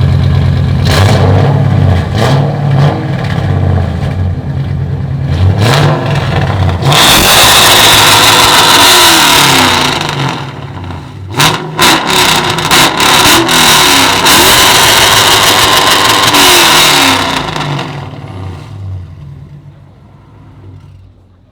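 A very loud car engine revving hard in repeated bursts, then running at full throttle with sharp cracks about halfway through. It fades steadily over the last few seconds as the car pulls away.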